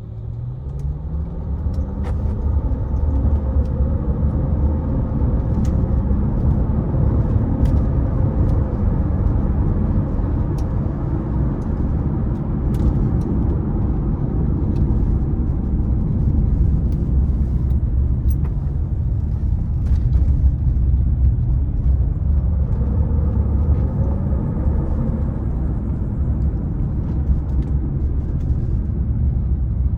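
Mercedes-Benz SL65 AMG's twin-turbo V12 engine running on the move, a steady low rumble with road noise. The engine note rises in pitch as the car accelerates in the first few seconds and again about 22 seconds in.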